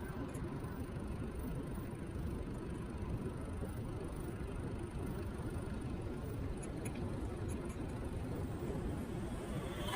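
Steady wind-and-road rumble from riding an electric kick scooter at a steady pace, heavy at the low end and picked up by a scooter-mounted action camera, with a few faint ticks.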